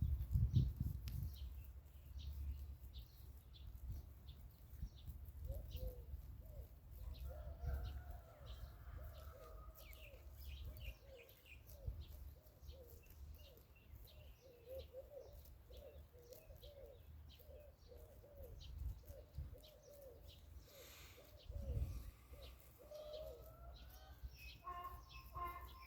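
Pigeons cooing over and over in short, repeated phrases, with small birds chirping faintly above them and a low rumble of wind on the microphone. A louder pitched call comes in near the end.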